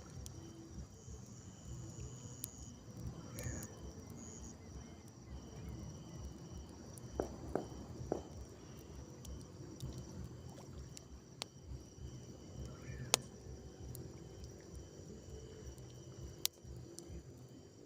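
Insects chirring steadily at the riverside over a low rumbling background, with a few scattered sharp clicks.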